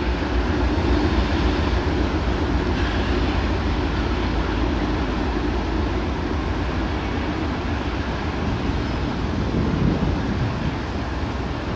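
Slow freight train passing close by: CSX GE diesel-electric locomotives running steadily, with the double-stack intermodal well cars behind them rolling on the rails.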